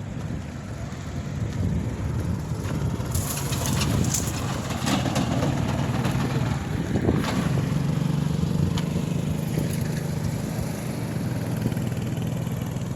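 Steady low hum of a running car engine, with outdoor background noise and a few faint scuffs a few seconds in.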